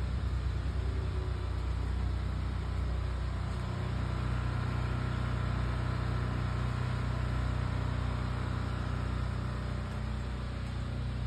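An engine running steadily at idle, a low even hum with no changes in speed.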